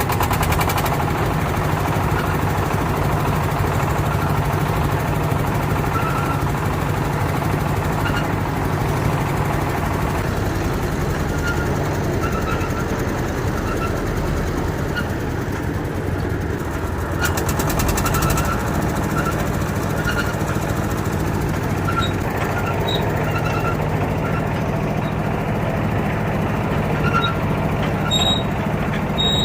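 A boat's diesel engine running steadily, a low hum with a fast, even knocking pulse.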